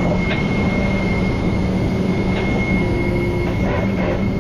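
Rollback tow truck's engine running steadily, with a steady high whine over a low hum, and a few light metal clinks.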